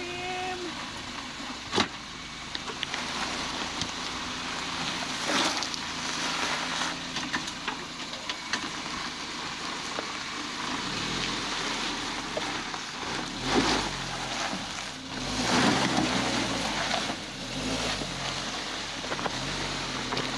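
Suzuki Jimny engine running at low revs while crawling over rocky ground, its note shifting up and down in the second half. Tyres grind over rock and gravel, with a couple of sharp knocks.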